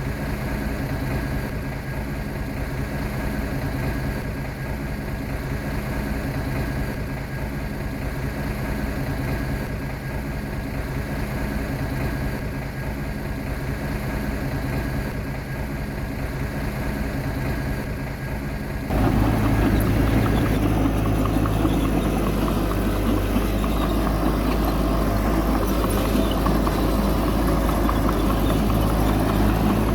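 Heavy diesel engine of a bulldozer running steadily, then suddenly louder and rougher about two-thirds of the way through.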